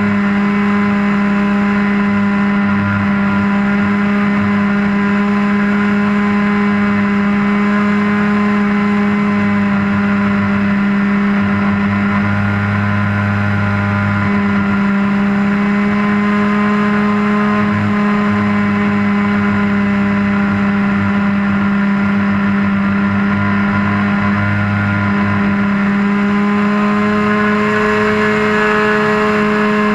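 Model airplane's motor running steadily at high speed, heard close up from a camera on the wing, with a strong steady tone and small shifts in pitch, rising slightly near the end.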